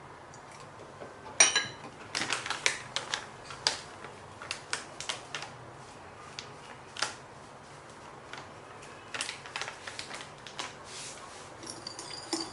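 Irregular run of sharp clicks and light taps from kitchen items being handled during food preparation, the first, about a second and a half in, the loudest.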